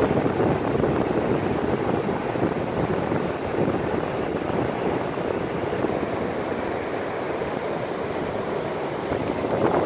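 Surf washing on the beach, a steady rushing noise, with wind buffeting the phone's microphone.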